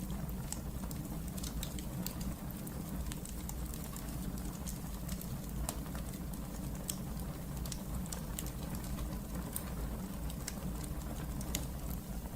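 Fire burning in a fireplace, crackling with many irregular sharp pops over a steady low rumble.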